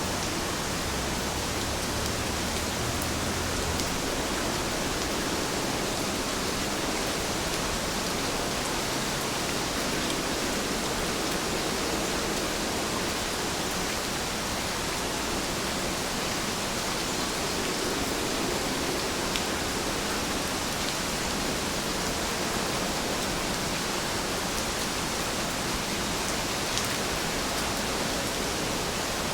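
Steady rainfall, an even hiss with a few faint drop ticks here and there. A low rumble sits underneath during the first few seconds.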